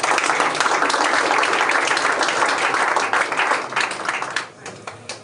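Audience applauding, a dense patter of many hands clapping that thins out and dies away about four and a half seconds in.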